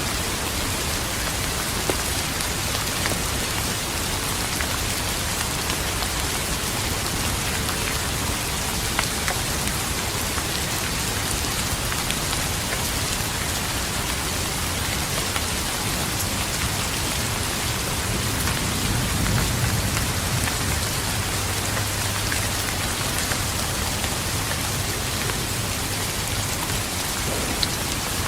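Steady rain falling, with individual drops ticking on surfaces. From about two-thirds of the way in, a low rumble of distant thunder swells and fades.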